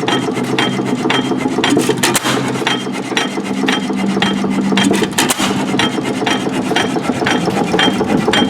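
Antique stationary gas engine running: a steady rapid clatter of sharp clicks, about four a second, over a steady low hum.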